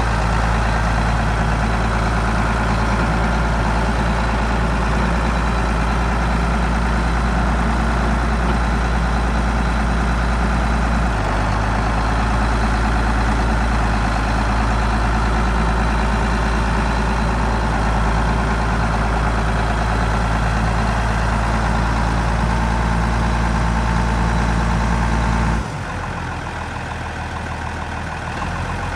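Case IH 7210 tractor's six-cylinder diesel engine running steadily. Its low note shifts slightly about a third of the way through, and near the end the sound drops abruptly in level.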